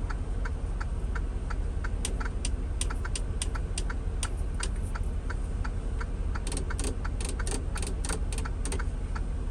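Steady low drone inside a moving truck's cab, with many small sharp clicks and ticks coming irregularly, often in quick runs.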